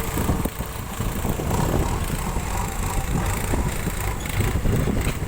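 JCB 3DX backhoe loader's diesel engine running, a steady low rumble.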